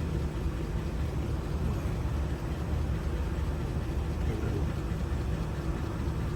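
Steady low rumble of running machinery, even in level throughout.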